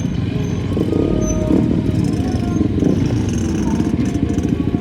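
A motor vehicle's engine running steadily, a dense low rumble.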